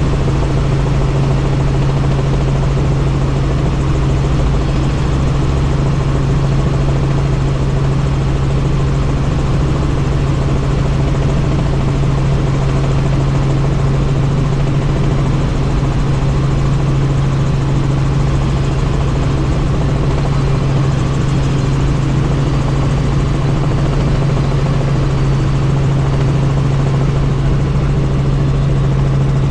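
Helicopter running steadily: continuous rotor and turbine noise with a strong, even low hum that does not change.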